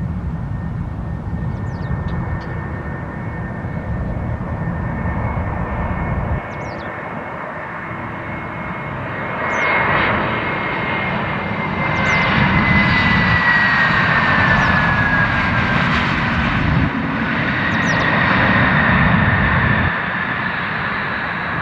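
Jet airliner engines passing, with a steady high whine that slides slowly lower in pitch over broad engine noise. The noise swells about ten seconds in and stays loud for most of the rest.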